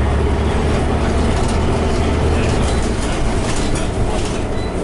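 Scania OmniCity single-deck bus on the move: a steady engine and road rumble with clattering, the deep engine drone easing about a second in.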